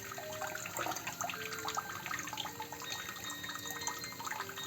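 Water trickling at a very slow flow from an EHM-849 alkaline water ionizer's outlet, with a steady run of small drips and plinks at changing pitches.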